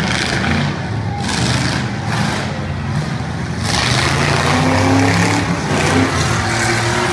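Demolition derby cars' engines running loud and revving, with engine pitch climbing from about halfway through.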